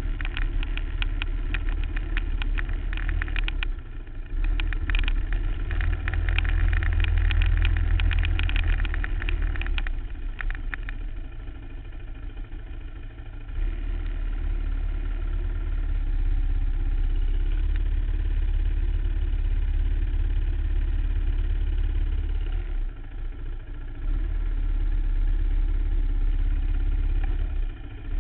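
2008 Suzuki LT-R450 quad's single-cylinder four-stroke engine being ridden hard around a motocross track, the throttle opening and closing, with short dips about 4, 12 and 23 seconds in. Rapid rattling clicks run through the first ten seconds or so.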